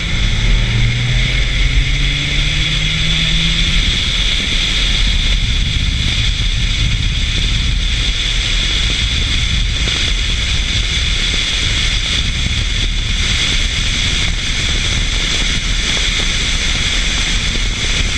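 Car engine under hard acceleration, its note rising through the first few seconds, then buried under heavy wind and road noise at speed.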